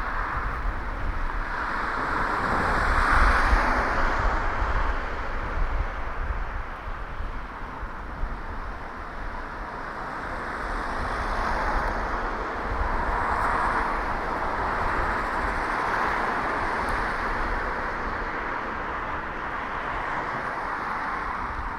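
Road traffic passing on a city street, its tyre and engine noise swelling about three seconds in and again in the middle, over a constant low wind rumble on the microphones from riding a bicycle.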